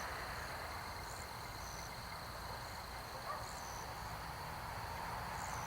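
Faint night insects: a steady high-pitched drone with a short high chirp repeating every second or two, over a low hiss.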